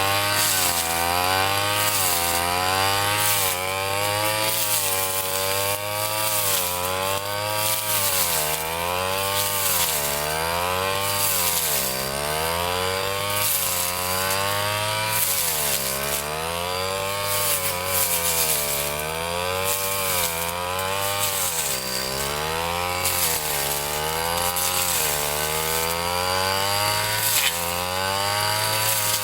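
Ryu 30.5 cc two-stroke brush cutter running at high revs while cutting grass. Its pitch sags and recovers every two seconds or so as the blade takes and clears each swath.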